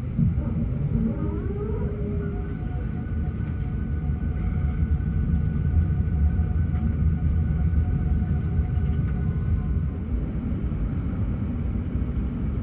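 Airbus A380 turbofan engines spooling up, heard from inside the cabin. A whine rises in pitch over about two seconds, then holds steady over a deep, heavy rumble.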